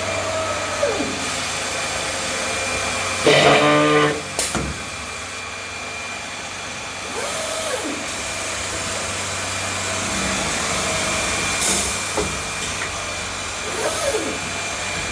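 SCM Startech CNC woodworking machining centre running: a steady hum with whines that rise and fall in pitch about every seven seconds as its axes move. A louder burst with several tones comes about three seconds in, then a click, and a short hiss near the end.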